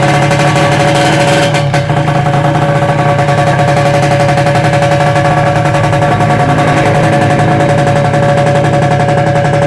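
Kawasaki Ninja R/RR's single-cylinder two-stroke engine running steadily at idle, a loud, fast, even put-put of firing pulses.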